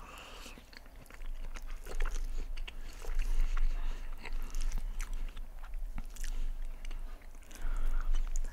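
Close-miked chewing of chicken poutine: a steady run of short wet mouth clicks and smacks as bites are chewed.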